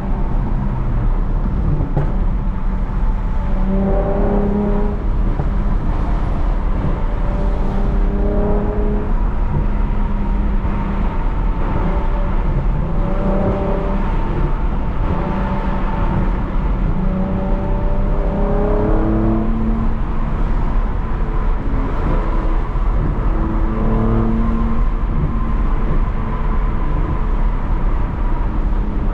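Lexus IS350's 3.5-litre V6, with a muffler-delete exhaust and a mid-pipe without secondary cats, droning as the car cruises, with heavy steady road rumble underneath. The exhaust note rises and falls as the throttle changes.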